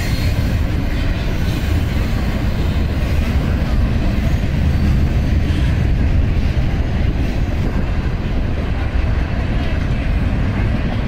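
Double-stack intermodal freight train passing: the container cars roll by with a steady, heavy rumble of wheels on the rails.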